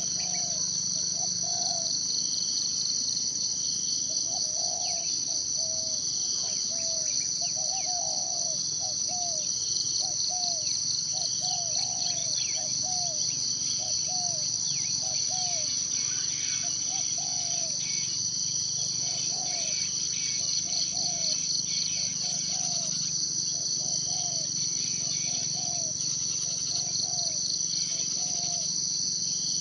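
A steady, high, finely pulsing insect chorus that never lets up and is the loudest sound. Under it, short low calls repeat about once a second, with brief pauses, and faint higher bird chirps come and go.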